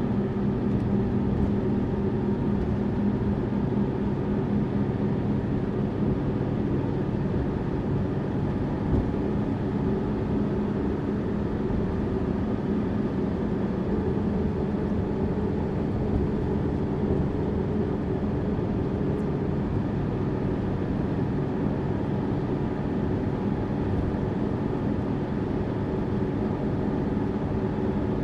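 Tourist bus cruising: a steady engine hum with road noise, holding an even pitch throughout.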